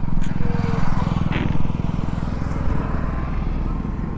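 Yamaha R15 V3's single-cylinder engine running steadily at low revs through an Akrapovic R9 aftermarket exhaust, its firing pulses evenly spaced.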